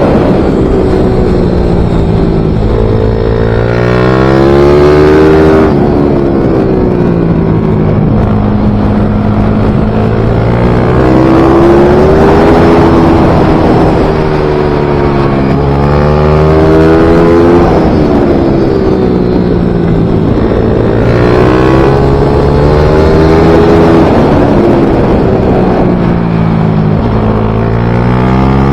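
Small racing motorcycle engine running at full throttle. Its pitch climbs and drops over and over, every few seconds, as the bike accelerates and then slows.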